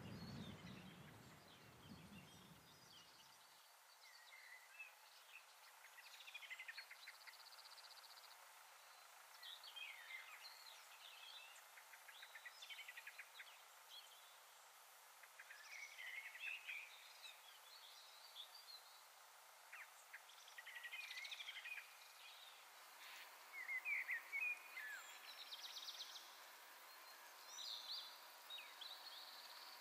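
Faint birdsong: scattered short chirps and trills from several small birds, with a couple of buzzy trills among them. A low rumble fades out in the first few seconds.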